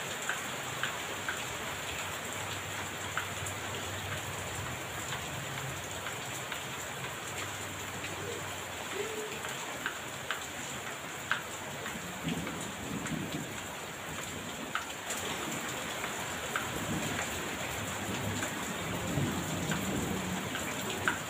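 Heavy rain falling steadily, an even hiss with scattered sharp ticks of individual drops striking a hard surface. A low rumble of thunder comes in the second half.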